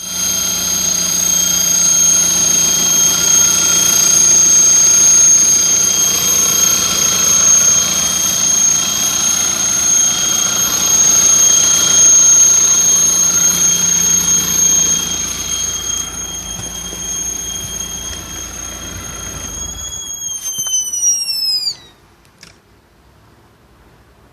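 Opel Omega B engine running with a loud, steady high-pitched whistle from under the bonnet. About twenty seconds in the engine is switched off and the whistle slides down in pitch as it winds down and stops, so it follows engine speed.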